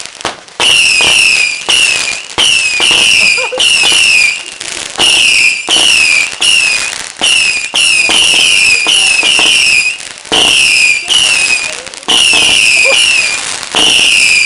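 A rapid barrage of fireworks: a continuous string of short falling whistles, often in pairs, mixed with sharp cracks, with only brief pauses.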